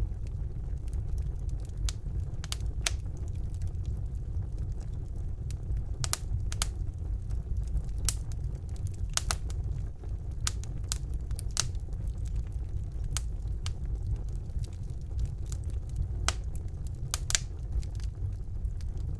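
Wood fire burning in a fireplace: a steady low rumble of flame with sharp crackles and pops at irregular intervals, some in quick pairs.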